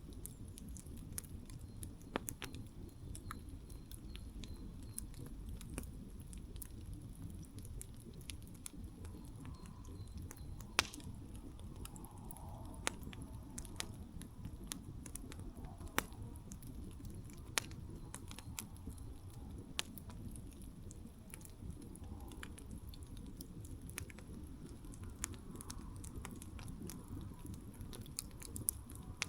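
Wood campfire burning: a steady low rush of flame under irregular sharp crackles and pops, with a handful of louder snaps scattered through.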